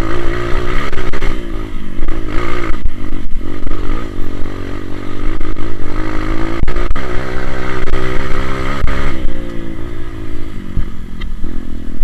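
Honda CRF230 dirt bike's single-cylinder four-stroke engine revving hard under load up a steep climb, the revs rising and falling with the throttle. The revs drop about nine seconds in.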